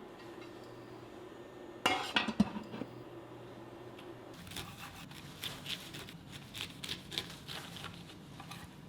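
Dishes and cutlery clattering: a burst of loud clinks about two seconds in, then a run of lighter clinks and taps through the second half.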